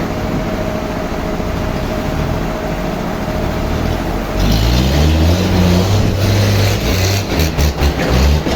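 Sawmill machinery running steadily with a mechanical hum; about four seconds in it grows louder, with a rising engine note and a hiss, and near the end it breaks into a quick run of knocks and clatters.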